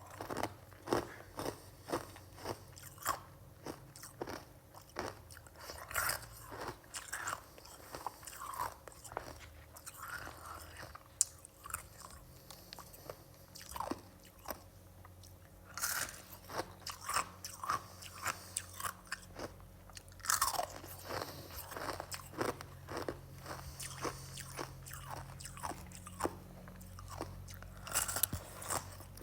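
Close-up crunching and chewing of freezer frost: a person bites into the icy frost again and again, each bite a sharp crackly crunch, at an uneven pace with a few short pauses.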